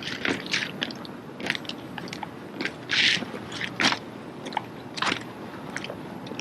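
Drill team rifles being handled in a drill movement: a scattering of sharp, irregular clacks and slaps as hands catch and strike the rifles. The louder slaps come about three and four seconds in.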